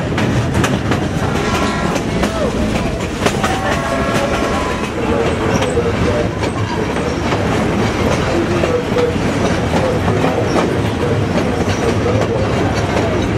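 Train running along the rail, heard from aboard a moving car: a steady rumble of wheels on track, with regular clicks as the wheels cross rail joints. A couple of brief high tones sound about two and four seconds in.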